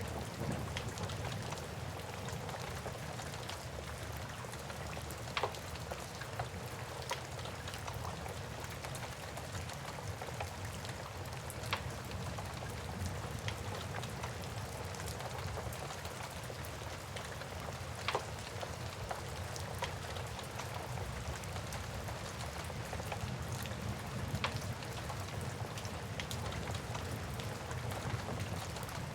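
Steady rain ambience mixed with a crackling wood fire: a constant hiss of rain with a low rumble underneath, and a sharp pop or crackle every few seconds.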